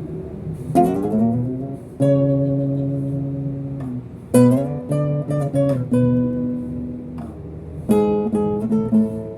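Acoustic guitar strumming chords and letting them ring, with a quick run of strums in the middle and another near the end: the instrumental introduction to the song before the voice comes in.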